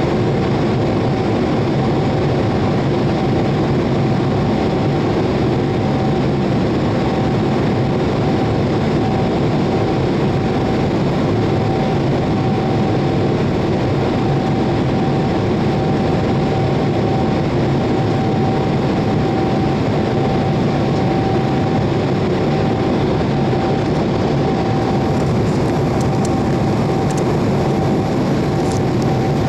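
Boeing 787-8 with Rolls-Royce Trent 1000 engines in flight: an even, unbroken rush of engine and air noise with a steady hum running through it.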